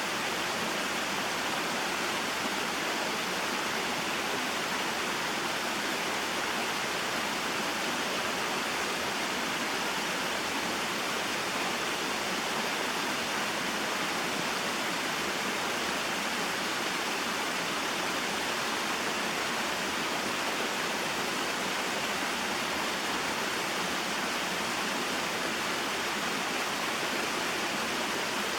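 Small mountain waterfall and stream, water splashing and rushing in a steady, unbroken flow.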